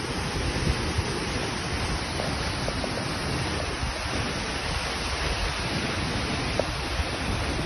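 Waterfall's falling water making a steady rush.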